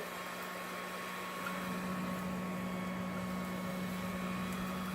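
Converted shop-vac 'bee vac' motor running with a steady low hum.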